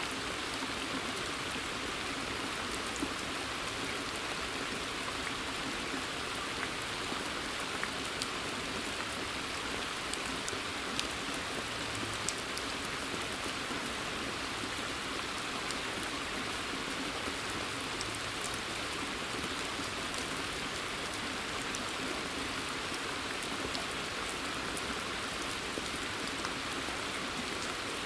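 Steady rain falling in woodland onto a pond's surface, an even hiss with scattered sharper drops landing close by.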